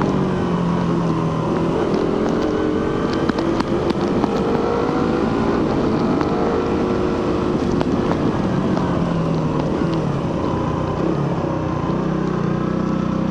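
Suzuki GSX-R150's single-cylinder engine running under way through its stock exhaust, its pitch rising and falling with the throttle. A few short ticks come about three to four seconds in, and the note settles lower near the end.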